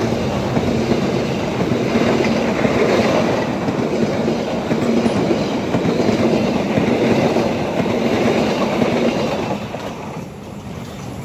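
Passenger train passing close at speed: a steady rush of wheel and coach noise that falls away about ten seconds in as the last coach goes by.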